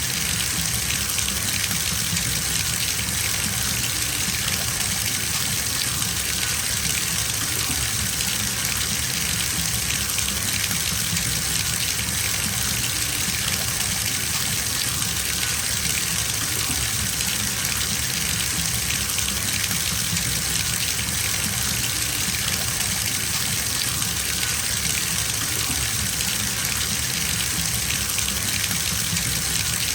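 Water running steadily from a bathtub tap into a filling tub, a constant gushing splash.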